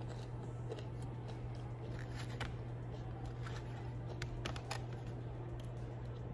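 A person chewing crunchy food close to the microphone: scattered short crunches and clicks over a steady low hum.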